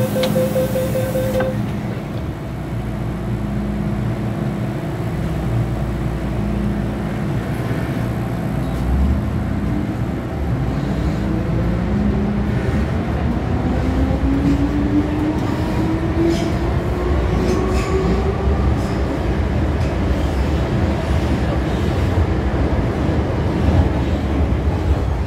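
MTR Island Line M-Train moving off, its traction motors whining in a tone that rises steadily in pitch as the train accelerates, over a continuous low rumble of running gear. A steady tone and hiss cut off about a second in.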